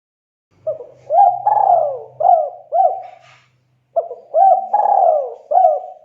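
A spotted dove (tekukur) cooing loudly in two phrases of repeated rolling notes, a short pause between them, the second starting about four seconds in. This is the vigorous advertising song that tekukur keepers play to draw rival doves to answer.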